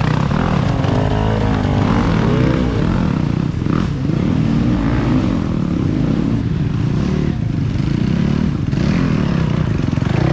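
Off-road racing dirt bike engines revving, the pitch repeatedly climbing and falling as riders work the throttle, over a steady low engine drone.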